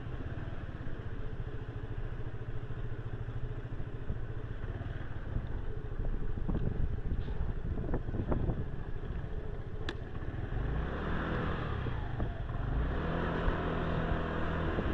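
Motorbike engine idling steadily while stopped, with a few light clicks, then pulling away and picking up revs from about ten seconds in.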